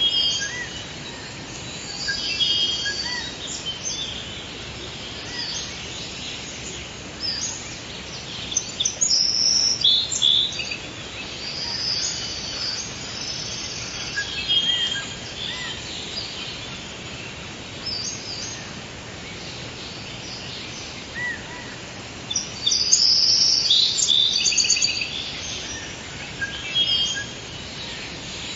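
Forest ambience: several birds chirping and singing in short calls and trills over a steady faint background hiss, with a busier burst of song a little past the three-quarter mark.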